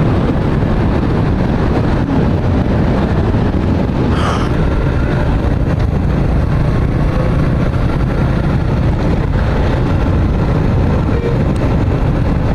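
Suzuki Gixxer motorcycle cruising steadily, engine running under heavy wind and road noise on the rider's microphone. A brief higher-pitched sound comes about four seconds in.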